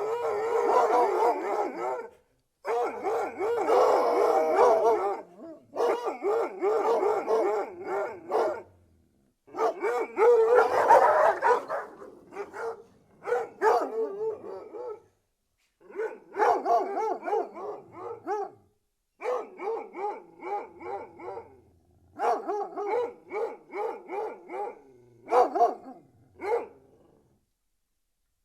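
A pack of hunting hounds baying, howling and barking in a string of bursts broken by short silences; the later bursts are shorter runs of quick barks, and the calling stops about a second before the end.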